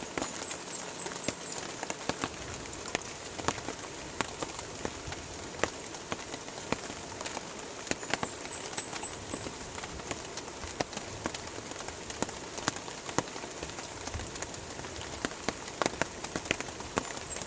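Steady rain, with large individual drops tapping sharply and irregularly. A high, quick chirping call of about four notes comes three times: about a second in, around eight seconds in, and near the end.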